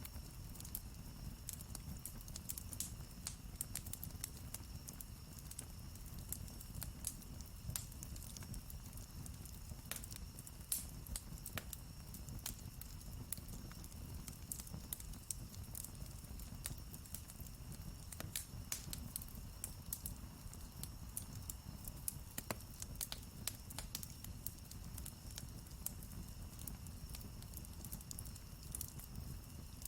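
Wood campfire burning, crackling with frequent irregular sharp pops and snaps over a steady low rumble of the flames.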